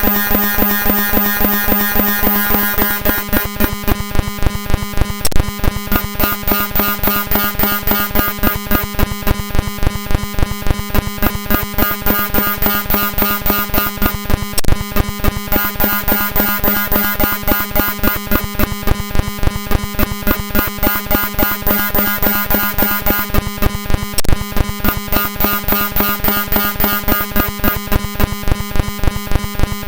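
Raw binary data of a Windows executable (DellTPad.exe) played directly as audio: a harsh, buzzy drone of many steady tones with a fast, regular pulsing. Three sharp clicks stand out, about ten seconds apart.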